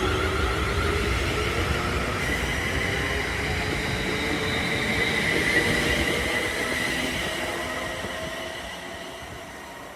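A train running by, a steady rumble with a high whining tone over it, fading away over the last few seconds.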